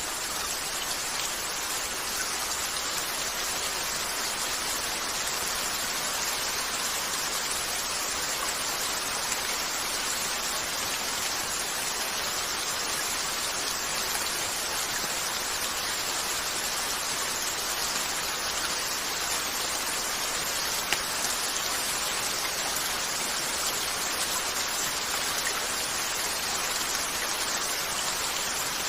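Steady rain pattering on a window, an even hiss with no letup. A few faint sharp clicks stand out now and then, the clearest about three-quarters of the way through.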